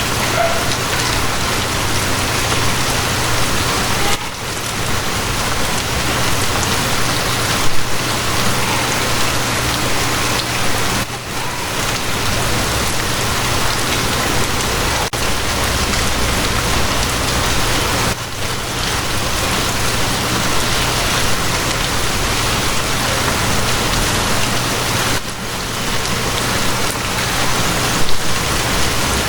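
Steady heavy rain falling, with a low steady hum underneath.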